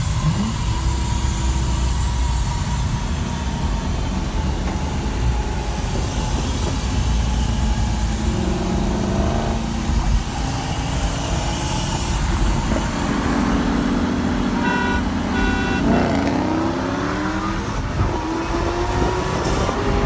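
Car engines running at idle with some revving, the pitch rising a few times in the second half, and a brief series of short beeps about 15 seconds in.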